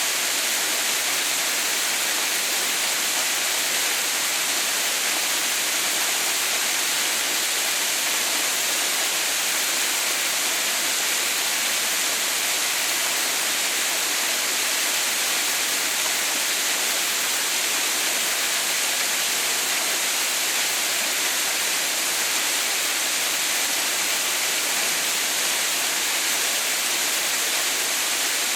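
Waterfall splashing onto rocks, a steady, even hiss of falling water.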